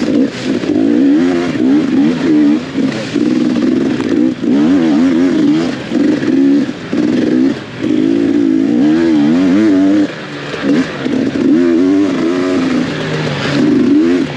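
Dirt bike engine ridden hard off-road, its revs swinging up and down constantly as the throttle is worked, with frequent brief drops where the throttle is chopped or a gear is changed.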